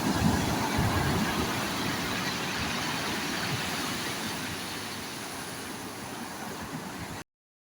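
Sea waves washing onto the shore: a surge just at the start, then a steady wash that slowly fades before cutting off suddenly near the end.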